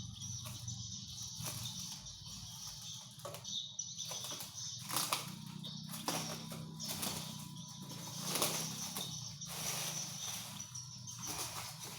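Irregular rustling and crinkling of parcel packaging being handled and unwrapped, over a steady low hum.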